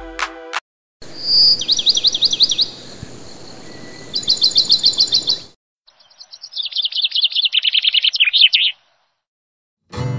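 Birds chirping in two stretches of rapid, repeated high chirps. The first stretch sits over a steady hiss and the second starts about six seconds in; each cuts off suddenly.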